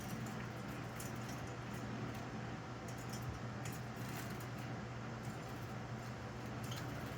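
Pet birds splashing in a shallow bath and scuffling, heard as many small scattered splashes and clicks over a steady low hum.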